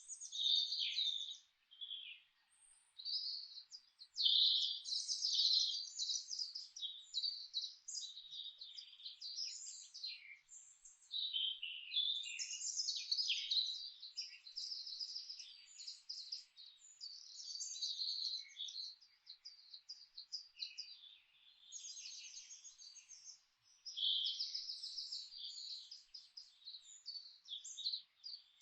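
Several songbirds singing and chirping at once, with high trills and quick twitters overlapping almost without pause.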